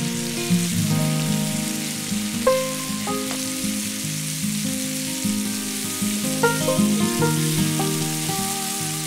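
Marinated tandoori chicken pieces sizzling as they fry in a pan, over background music with held notes.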